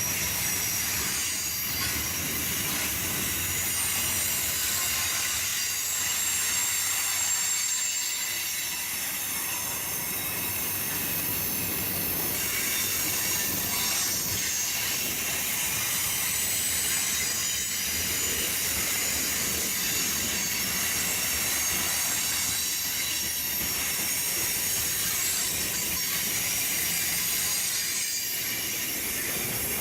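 Freight train cars rolling past with their wheels squealing: a steady high-pitched ringing over the rolling noise of the cars.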